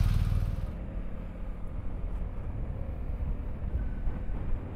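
Motorcycle riding slowly, its engine a low, steady rumble under road and wind noise; the wind hiss falls away sharply just under a second in as the bike slows.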